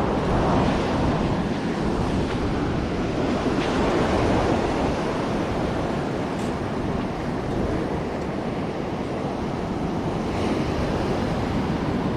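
Steady ocean surf and wind buffeting the microphone on an open beach.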